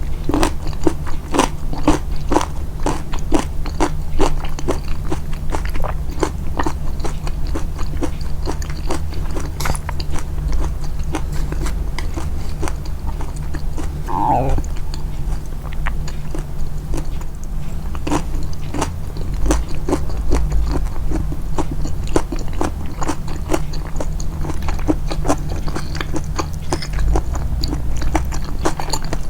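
Close-miked chewing of soft, moist food, with irregular wet clicks and smacks of the mouth, over a steady low hum. About halfway through comes a short sliding sound that falls in pitch.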